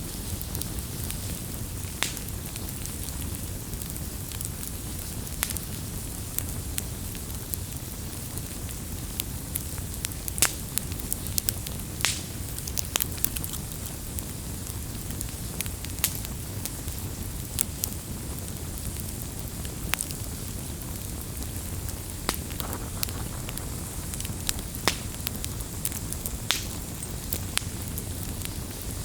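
Wood campfire burning with a steady low rumble, the wood crackling and popping at irregular moments, a few pops sharper than the rest.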